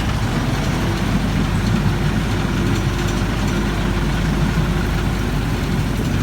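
Narrow-gauge tourist train's diesel engine running steadily, heard from inside the passenger carriage, with a faint steady whine through most of it.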